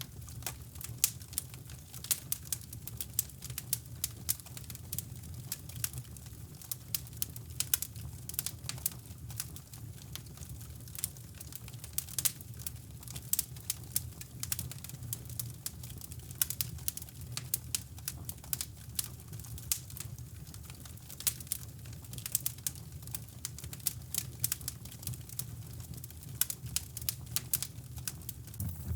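Wood fire crackling in a fireplace with many irregular sharp pops and snaps, over a steady low rushing of brown noise.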